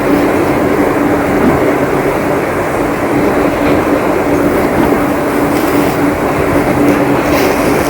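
Heavy rain falling steadily, a dense even roar with a faint steady hum running under it.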